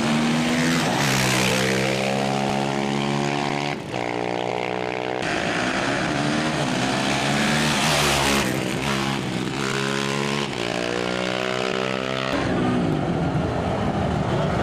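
Off-road racing motorcycle engine revving hard, its pitch climbing and then falling as the rider works the throttle and shifts gears.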